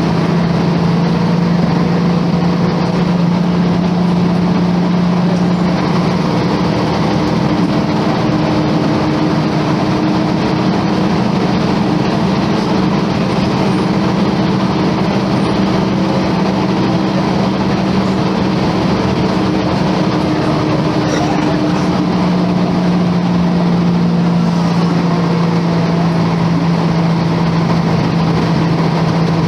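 Volvo B10M bus's mid-mounted six-cylinder diesel engine running steadily. Its pitch steps up about six seconds in, holds, and drops back down a little past twenty seconds.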